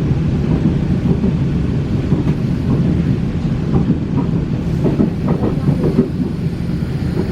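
Freight train of grain hopper wagons hauled by an R28 diesel-electric locomotive passing, a loud, steady low rumble of wheels and wagons on the track.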